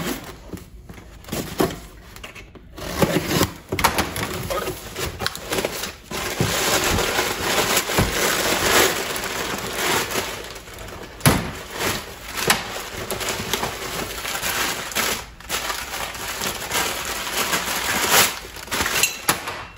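Shipping box being opened and unpacked by hand: cardboard and packing material handled and torn. It comes as a dense scratchy noise with scattered knocks, quieter at first and busiest from about six seconds in until near the end.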